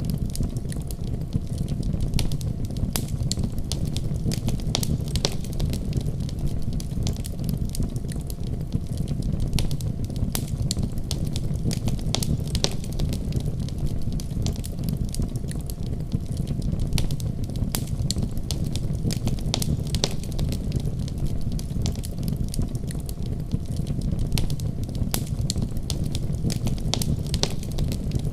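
Wood fire burning in a fireplace: a steady low rumble with many sharp crackles and pops scattered throughout.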